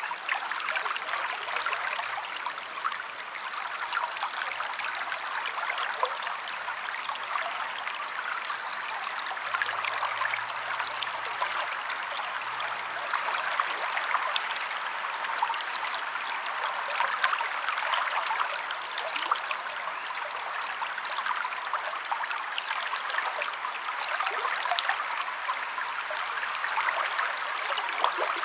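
Stream water flowing steadily, splashing and babbling over rocks. A few faint, short, high bird trills come through now and then.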